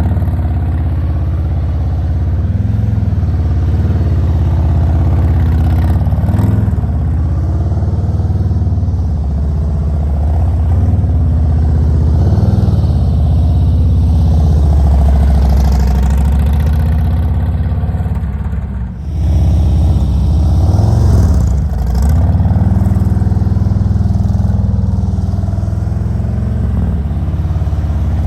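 Motorcycle engine running at low speed through slow-speed maneuvers, the pitch rising and falling every couple of seconds with small throttle changes, and briefly dropping away about two-thirds of the way in.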